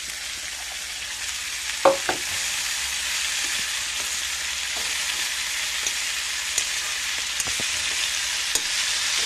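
Cubed potatoes and fresh brahmi (manimuni) leaves sizzling in hot oil in a steel kadai, fried in oil alone with no water added, while a steel spoon stirs them. The spoon knocks sharply on the pan twice about two seconds in, with a few lighter scrapes and taps later.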